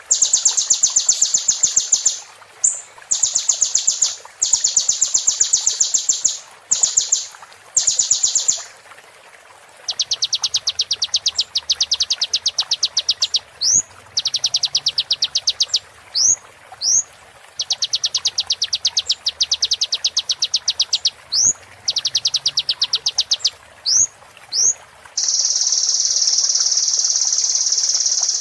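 Sunbird (kolibri) song: rapid, buzzy trills of one to three seconds each, broken by short, sharp upward-sweeping notes. Near the end it goes into one long unbroken trill.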